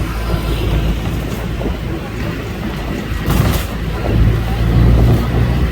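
Motor vehicle running, a steady low engine and road rumble that swells slightly near the end.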